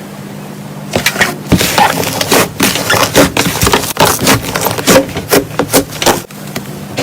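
Slime being squished and played with, giving a rapid run of crackling pops and clicks that starts about a second in and stops shortly before the end.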